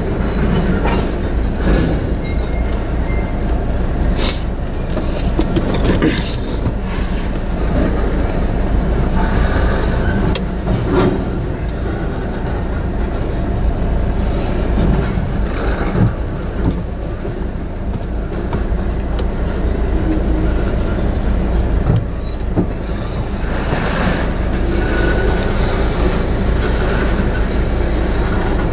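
Freight cars of a manifest train rolling past at a grade crossing: a steady low rumble of wheels on rail, with irregular clunks and clacks as wheels cross the rail joints.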